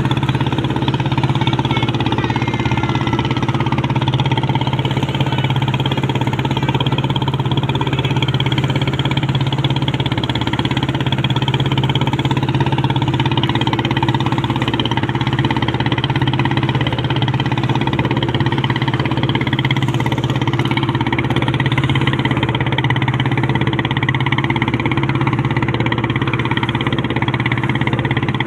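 A boat's engine runs steadily at constant speed, a loud even drone. A faint high wavering whistle fades out in the first few seconds.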